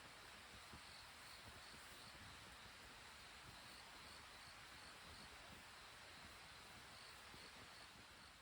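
Faint insects chirping in the wild: a thin high trill pulsing evenly about twice a second over quiet background hiss.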